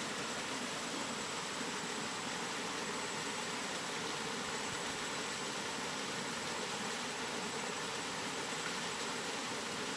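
Steady rain, an even hiss with no single drops or gusts standing out.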